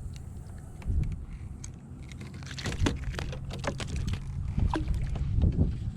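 Clicks and taps of handling a small caught trout and tackle on a kayak, with a thump about a second in and a dense run of clicks from about halfway through, over a low rumble.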